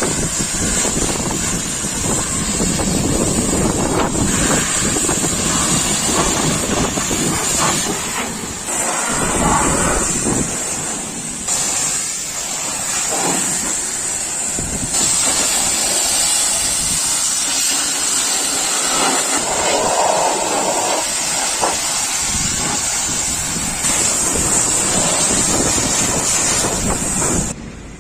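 High-pressure washer spraying water with a steady, loud hiss, in several stretches joined by abrupt changes. It drops off suddenly near the end.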